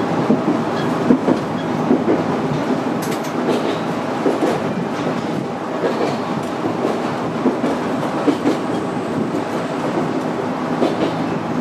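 Iyo Railway 700 series electric train running along the track, heard from inside the front car, with a steady running rumble and irregular clicks of the wheels over rail joints.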